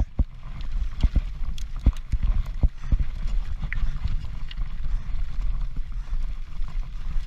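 Transition Patrol mountain bike descending at race speed, its frame, chain and suspension knocking and rattling irregularly over the trail, with steady wind rumble on the microphone.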